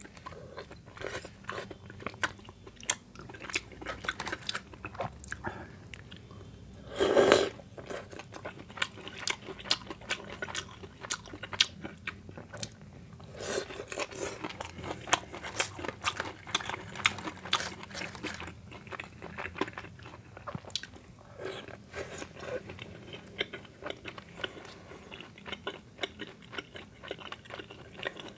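Close-miked eating of spicy tteokbokki and fried foods: a steady run of wet chewing, lip smacks and crunchy bites, with one longer, louder mouth sound about seven seconds in.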